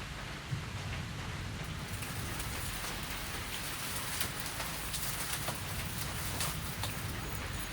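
Steady rain falling, with scattered louder individual drops striking a surface every second or so.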